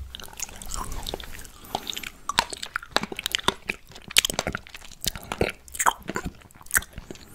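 Close-miked chewing of a fresh blackberry: many irregular sharp crackles and clicks, busiest in the middle seconds.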